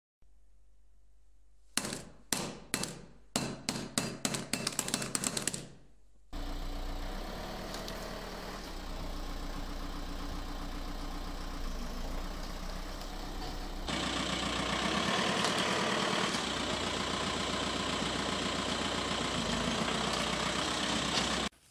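A series of sharp knocks coming faster and faster, then a car engine idling steadily. The engine grows louder about halfway through as the car pulls forward onto a mobile phone lying under its front tyre.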